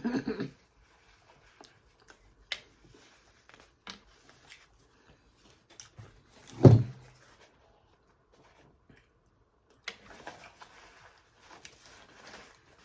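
Close-miked eating of fried seafood: scattered wet mouth smacks and clicks from chewing, with one louder short low sound about six and a half seconds in.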